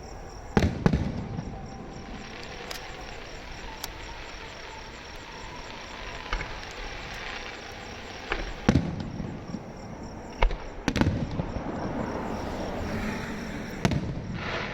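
Electrically fired fireworks going off: a few sharp bangs, one about half a second in, one about 9 seconds in, two close together around 11 seconds and one near the end. Steady crackling and hissing fill the gaps between them.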